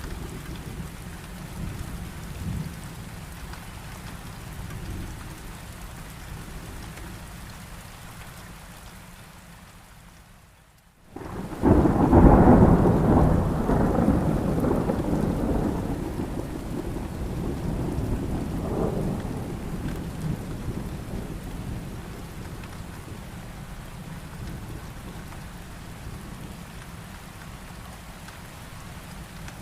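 Steady heavy rain, which fades almost to nothing about ten seconds in. A sudden loud thunderclap follows, then a long low rumble that dies away over several seconds while the rain keeps falling.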